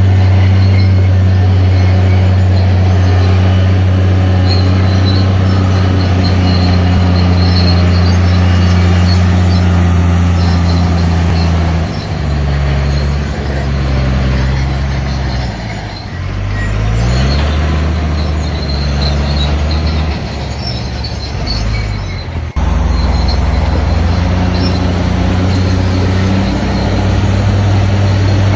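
Heavy diesel engine of earthmoving machinery running under load, a deep steady drone. The engine note drops a little before halfway, rises again shortly after, and the sound changes abruptly about three-quarters of the way through.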